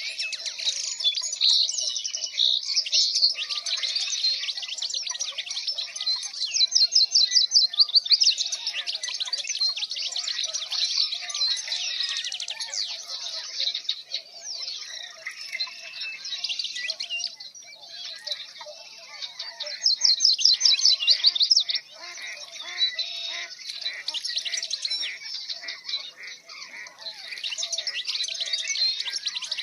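A chorus of many songbirds chirping and singing over one another. Twice, about seven seconds in and again about twenty seconds in, a loud, fast trill stands out above the rest.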